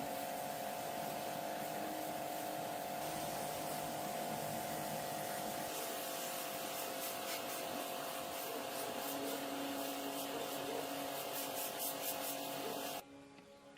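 A workshop machine running with a steady hiss and hum, with a run of rapid high ticking in the middle; it cuts off abruptly near the end.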